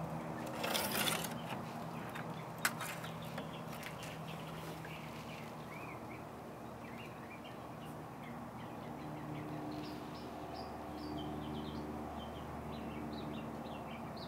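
Small birds chirping in quick short calls over a steady low hum. About a second in there is a brief rustle, then a single click.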